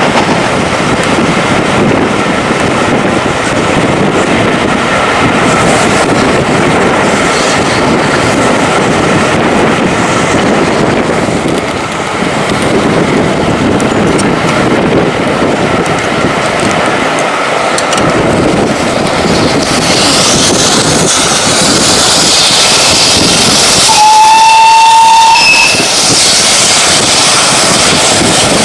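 Steam train running, with a steady rumble and rattle of wheels on track, then a hiss of steam. About three quarters of the way through, the locomotive's steam whistle sounds once for about two seconds.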